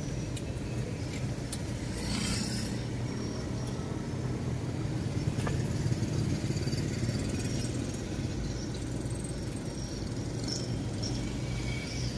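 Car engine idling, heard from inside the cabin: a steady low hum, with a few faint light clicks over it.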